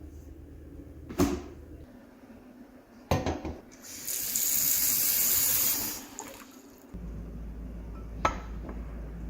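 Water tap turned on and running hard for about two seconds, then shut off. A sharp knock comes before it, a few clattering knocks come just before the water, and a single click comes near the end.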